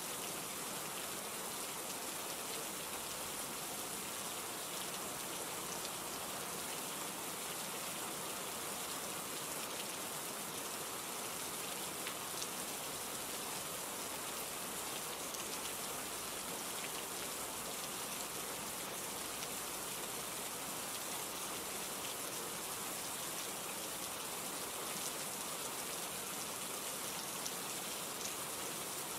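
Steady rain: an even hiss of falling rain with a few faint scattered drop ticks.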